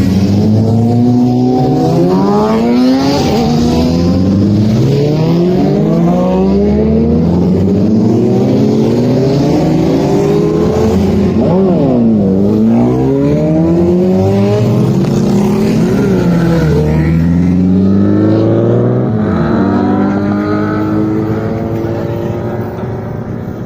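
Sport motorcycle engine accelerating hard through the gears, its pitch climbing again and again and falling back at each shift, with a quick drop and rise in revs about halfway through. The engine note eases off near the end.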